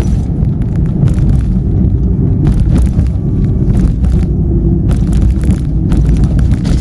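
Car cabin noise while driving: a steady low rumble of engine and tyres on the road, with scattered light clicks and ticks over it.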